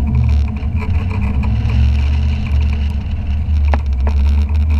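The C2 Corvette's 525 hp LS3 V8 running as the car is driven through an autocross course: a steady low drone that shifts slightly in pitch. Two brief clicks come near the end.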